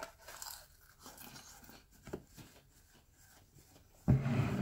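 A person chewing crunchy beer-battered, deep-fried chicken wieners, with small crunching sounds on and off. Near the end there is a louder, low, muffled sound lasting about half a second.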